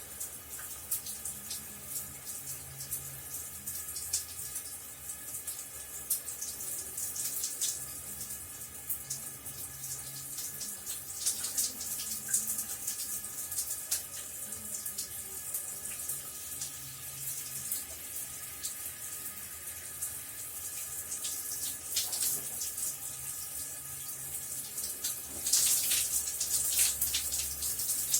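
Shower running steadily: a constant hiss of spray with many small splashes, growing louder about three seconds before the end.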